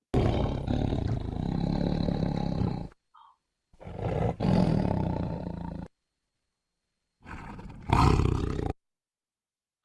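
Tiger roaring three times, a growling, roaring sound: two long roars of two to three seconds each, then a shorter one that starts low and swells louder near the end.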